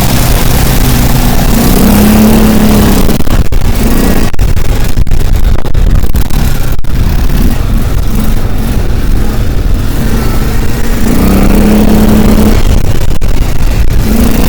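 A car on the move, with engine and road noise, loud and dense. The engine note rises and swells twice, about two seconds in and again near the end.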